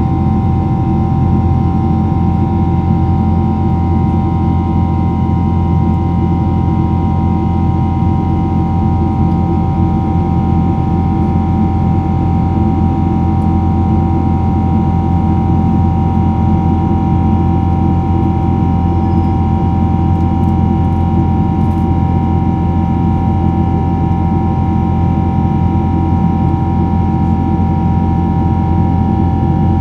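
Airliner cabin noise: the jet engines' steady drone with a low rumble and several constant whining tones, heard from inside the cabin.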